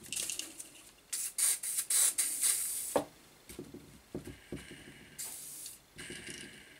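WD-40 aerosol sprayed in several short hissing bursts onto an electric motor's bearings to free them up, with a few light knocks between the bursts.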